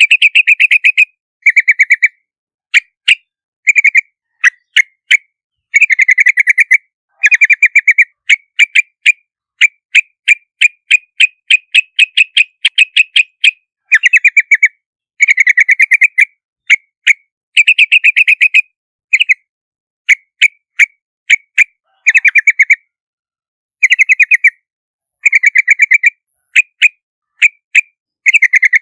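Yellow-vented bulbul calling in repeated bursts of fast chattering notes, about a second each, broken by single sharp chips with silent gaps between them. It is a clean lure recording of the species' calls.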